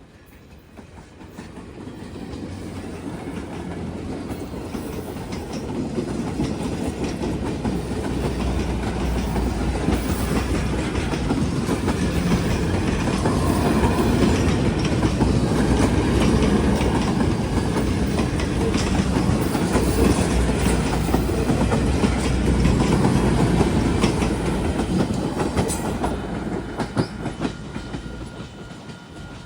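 A train passing, its wheels clicking and rumbling over the rails. It grows louder over the first few seconds, holds through the middle and fades away near the end.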